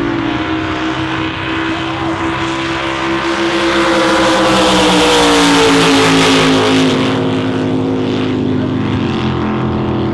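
Two jet drag boats running side by side at full throttle down the course, the engines rising in pitch and growing louder to a peak about five to six seconds in, then the pitch dropping as they come off the throttle past the finish.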